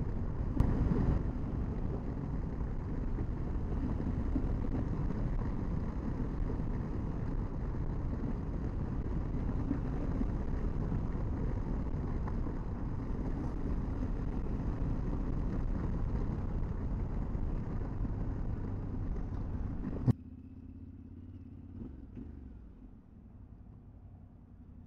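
Motorcycle running on the road, heard from a helmet camera: a steady engine and road rumble that cuts off abruptly about 20 seconds in, leaving a much quieter low hum.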